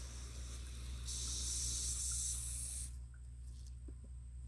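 Water spraying from a hose, a steady hiss that gets stronger about a second in and cuts off about three seconds in, over a steady low hum.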